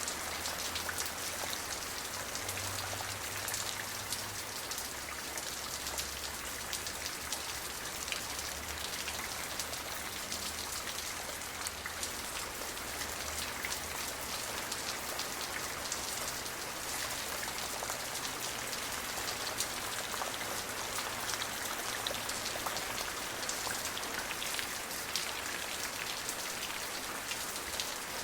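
Steady rain, a dense even hiss of drops with many small close patters on a surface. A faint low rumble underneath fades away a few seconds before the end.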